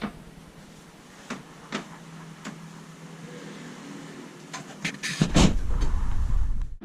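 A few light clicks of cables being touched to the Tata 407's starter motor terminals, then from about five seconds in a louder low rumble with sharp clacks, which stops abruptly.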